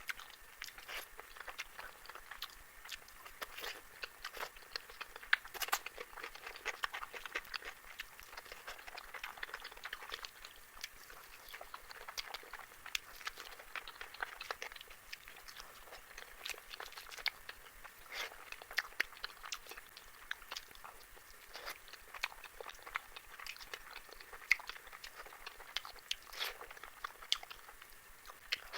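Close-miked eating sounds: a person chewing food with wet smacking and crisp crunching, a steady run of small irregular clicks and crackles.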